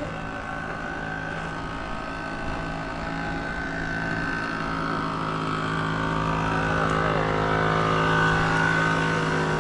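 A vehicle motor running at a steady pitch, gradually growing louder.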